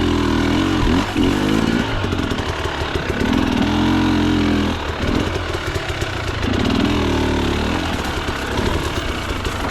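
KTM two-stroke enduro dirt bike engine under load, its revs climbing and dropping in about four bursts with choppy low-rev running between them.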